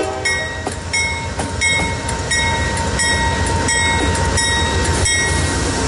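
GE diesel road locomotives leading a heavy freight train run steadily past a grade crossing. Over them the crossing-signal bell rings in regular strokes, about three every two seconds, and stops near the end.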